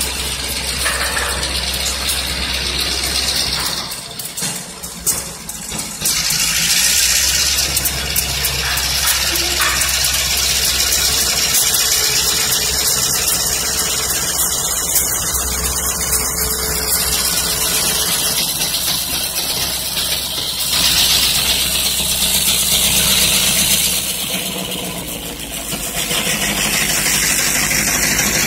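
A diesel locomotive passing on the tracks below, its engine running with a steady low drone over the rattle and rolling noise of the train.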